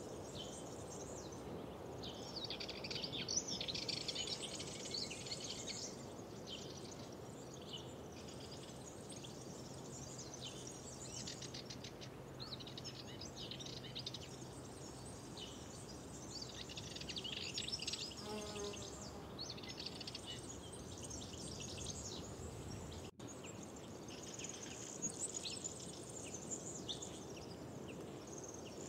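Songbirds singing in repeated short phrases over a steady outdoor background hiss, with a brief break in the sound about two-thirds of the way through.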